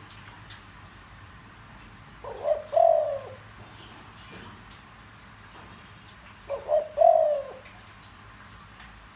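Spotted dove cooing in a deep voice: two calls about four seconds apart, each a couple of short notes followed by a longer note that falls away.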